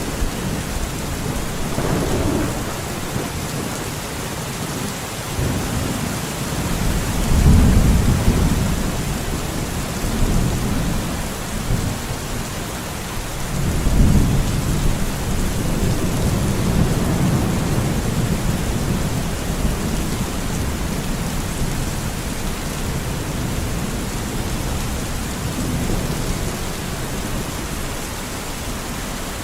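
Steady heavy rain in a forest, with rolls of thunder that swell and rumble low about 7 seconds in and again about 14 seconds in.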